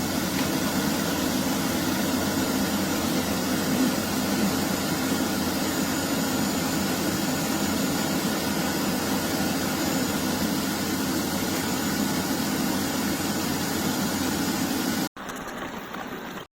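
eufy Omni C20 base station's dust-collection suction motor running steadily while it auto-empties the robot's dustbin. It cuts off sharply near the end, leaving a brief, quieter hum.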